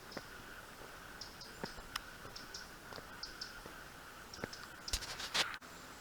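Woodland walk sounds: scattered clicks and rustles, short high chirps from small birds over a steady insect-like hum, and a louder rustle about five seconds in.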